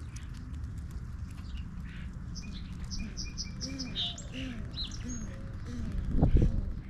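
Small birds chirping: a quick run of short high chirps a little past the middle, over soft low repeated calls. Near the end there is a loud low thud.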